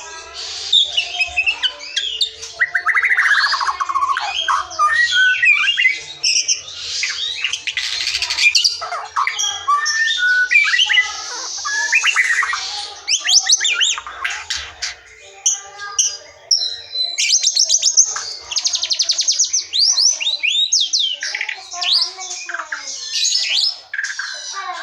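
White-rumped shama singing a long, varied song of clear whistles, chirps and harsh notes, broken by rapid trills of fast repeated notes about halfway through and again a few seconds later.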